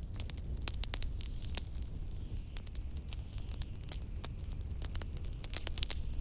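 Wood fire crackling in a fireplace, with frequent irregular sharp pops and snaps, over a steady low rumble of wind.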